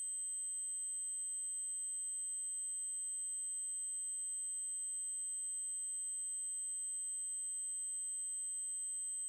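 Steady, unbroken high-pitched electronic test tone: an 8192 Hz triangle wave held at one pitch.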